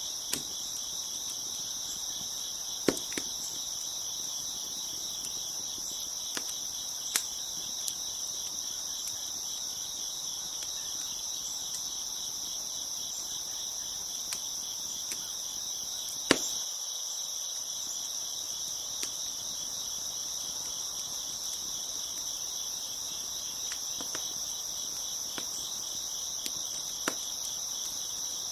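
Steady chorus of crickets chirping, with scattered sharp pops and snaps of a crackling wood fire, the loudest just past the middle.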